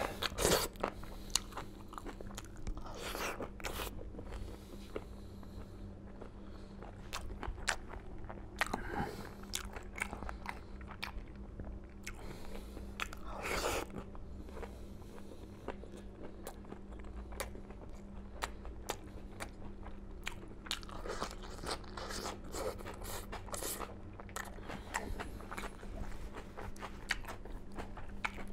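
Close-up eating sounds of a man chewing and smacking his lips as he eats egg and chicken curry by hand: many small wet clicks, with a few louder smacks now and then. A faint steady hum runs underneath.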